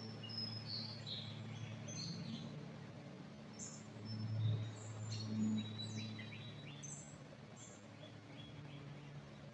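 Several small birds calling in a pine forest, with short high chirps and quick falling notes scattered through, over a steady low hum that swells briefly about halfway through.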